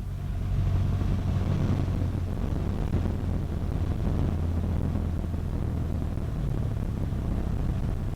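Cessna 152's four-cylinder Lycoming engine and propeller droning steadily in flight.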